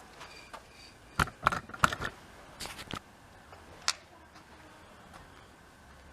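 A handful of sharp clicks and knocks, bunched together about a second in, a few softer ones after, and one last click near four seconds.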